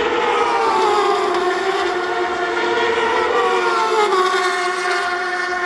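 Racing motorcycle engine at high revs, its whining pitch sliding up and down with the throttle and dropping about four seconds in, then holding steady.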